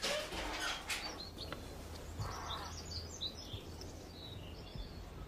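A brief clatter and a couple of knocks at the start, then small birds chirping in quick high twitters.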